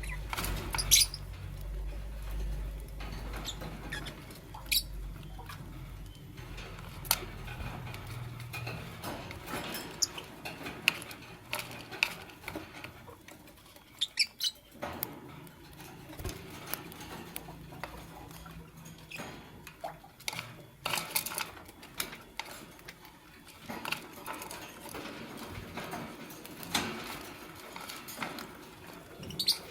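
Fischer's lovebirds moving about: scattered sharp taps and scratching, with short high squeaks, over a low hum in the first several seconds.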